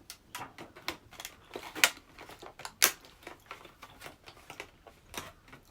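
Close-miked chewing and wet mouth clicks of someone eating a brownie: irregular smacks several times a second, the loudest two about 2 and 3 seconds in.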